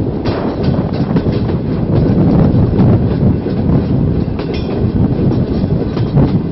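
Pakistan Railways passenger coaches rolling slowly out of a station, heard from aboard the train: a steady rumble with the wheels clacking irregularly over rail joints.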